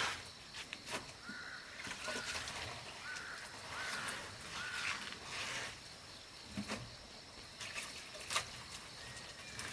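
A few short bird chirps in the first half, over faint trickling water, with scattered light clicks and knocks.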